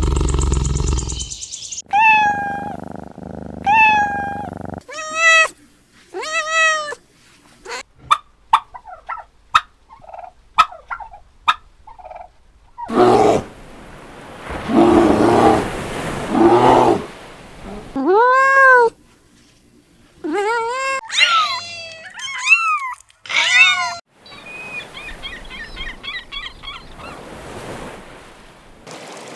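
A string of separate animal calls cut one after another: a deep roar fading out at the start, then many short rising-and-falling cries, most of them cat meows, with a run of sharp clicks and some rougher noisy calls between them.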